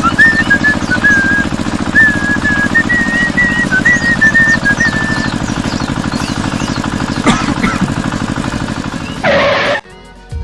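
A tune whistled in short stepped notes over a steady, fast low pulsing like a small motor running; the whistling stops about halfway through. A sharp knock comes about seven seconds in, and near the end a short, loud rush of noise cuts off suddenly.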